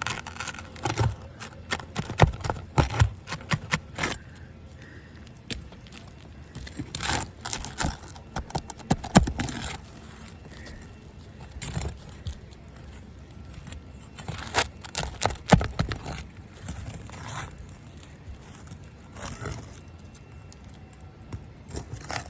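Tool scraping and clicking against roofing nails and shingles as the nails are pried out, in irregular bursts of sharp clicks and knocks with scraping between them. The shingles are brittle and sun-aged, so the nails tear through rather than pulling cleanly.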